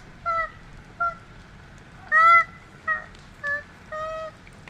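A burned koala crying out in distress: about seven short, high, wavering cries, the loudest about two seconds in.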